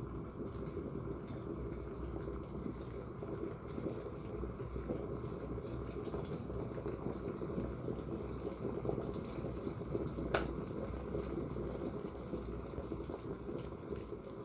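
Waterfall and river water rushing steadily, a dense, low, even splashing, with one sharp click about ten seconds in.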